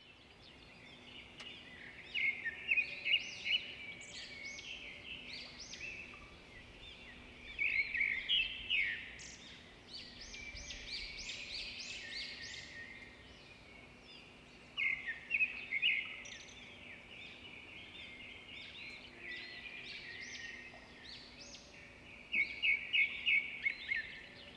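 Small birds chirping and singing, with several bursts of quick high twittering scattered through, over a faint steady hum.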